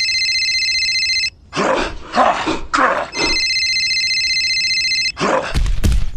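Electronic telephone ringtone with a fast trilling ring, heard twice, each ring about two seconds long. Short noisy bursts come between the rings, and low thuds follow near the end.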